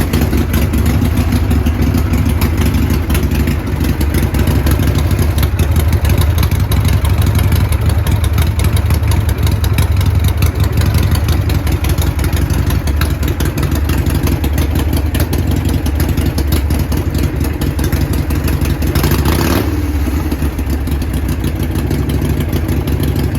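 Motorcycle engine running steadily at a fast idle, with a brief change in its note near the end.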